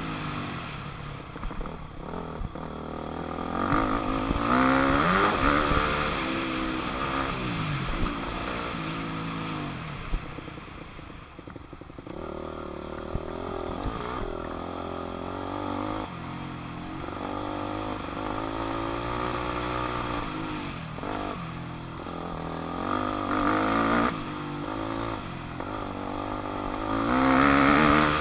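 2006 Yamaha 250F four-stroke single-cylinder dirt bike engine revving up and falling back over and over as it is ridden around a motocross track, its pitch climbing and dropping through the gears. It is loudest a few seconds in and again near the end.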